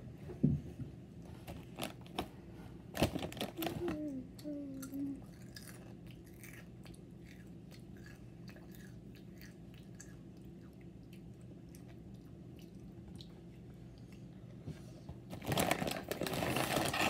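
Crunchy food being chewed close to the microphone, with scattered clicks and a brief hum a few seconds in. Near the end a plastic wrapper crinkles loudly as it is handled and opened.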